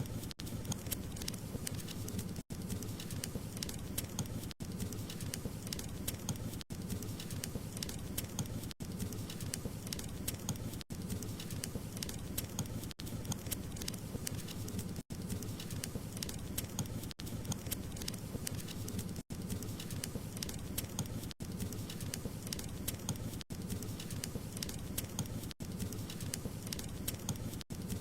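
Wood fire crackling steadily, dense small pops and snaps over a low rumble. The sound drops out for an instant about every two seconds.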